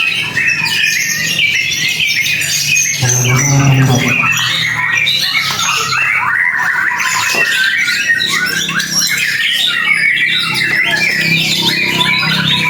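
White-rumped shamas singing loud, rapid, varied phrases that overlap one another, with a short low hum about three seconds in.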